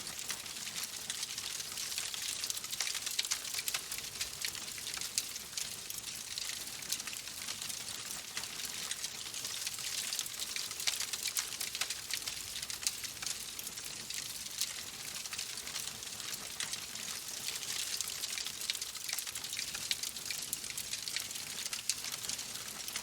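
Wood fire crackling in a fireplace: a steady hiss thick with small pops and snaps, with a few sharper cracks now and then.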